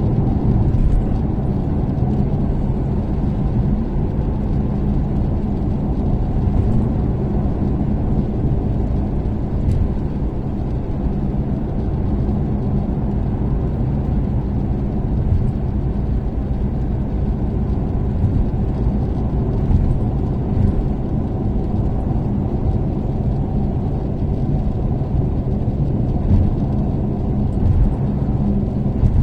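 Toyota Caldina ST246W's turbocharged 3S-GTE four-cylinder engine and road noise while cruising at a steady expressway speed: a continuous low drone with a steady hum, without revving up or down.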